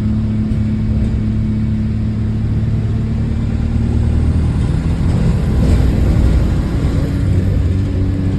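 Double-decker bus engine heard from on board, running with an exhaust leak. It runs steadily, grows louder and rougher from about four and a half seconds in, as if pulling under load, then settles back to a steady note near the end.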